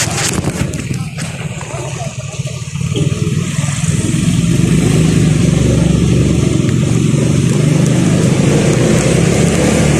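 A road vehicle driving, with steady engine and tyre noise. It is a little quieter for the first few seconds and then grows louder and holds steady.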